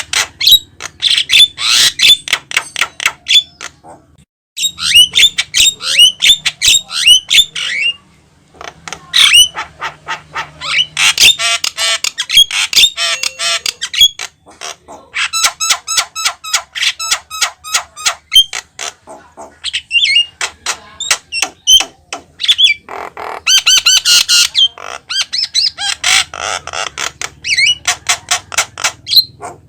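Javan myna singing a long, rapid medley of harsh chattering, clicks and sharp whistles, in phrases broken by short pauses.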